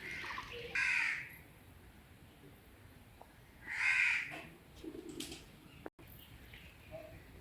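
A crow cawing: two loud harsh caws about three seconds apart, the first about a second in and the second near the middle.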